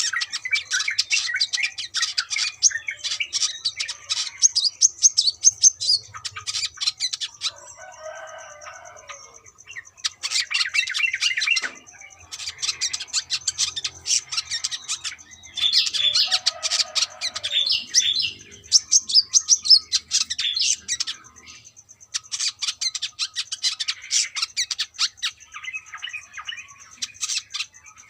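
Brown-throated sunbird singing a busy song of rapid, high chirps and trills in bursts of a few seconds, with short pauses between them.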